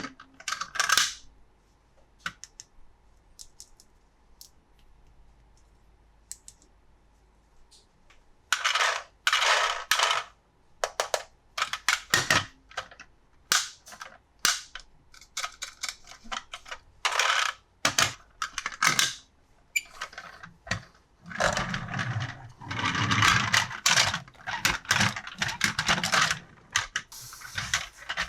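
Plastic toy parts and packaging being handled: scattered sharp clicks and snaps, then from about eight seconds in a busy run of rustling bursts, clicks and light knocks.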